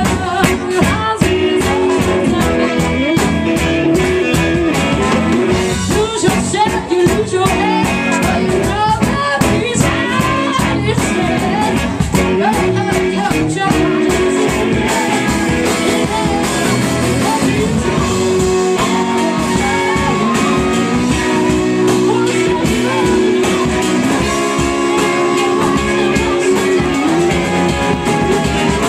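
Live blues-rock band playing loudly and continuously, with electric guitar, drums and a singing voice.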